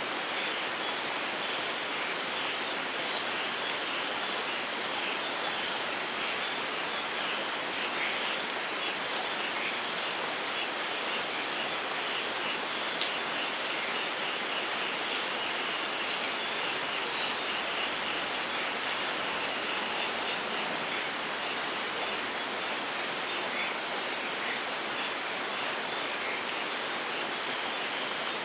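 Steady rain falling: an even hiss with a fine patter of drops that holds unchanged throughout.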